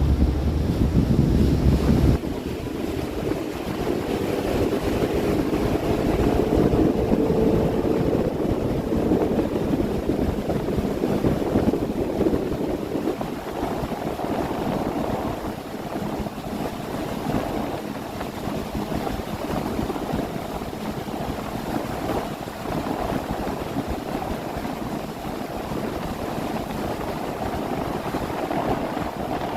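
Boat under way on a lake: a motor running steadily with water rushing past the hull. Wind buffets the microphone with a heavy rumble for the first two seconds, then cuts off. A faint tone rises slowly for several seconds near the start.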